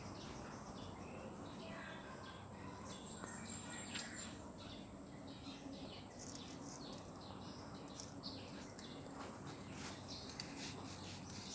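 Faint outdoor ambience: small birds chirping in short scattered calls over a steady, high-pitched insect drone.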